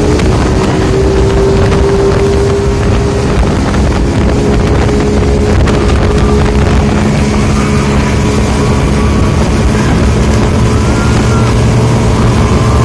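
Boat motor running steadily, its pitch shifting down partway through and rising again near the end, with wind buffeting the microphone.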